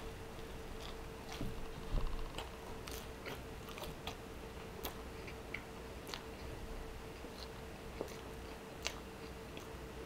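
Close-up mouth sounds of biting into and chewing a chewy fried pastel de yuca: scattered wet clicks and smacks, loudest about two seconds in, over a faint steady hum.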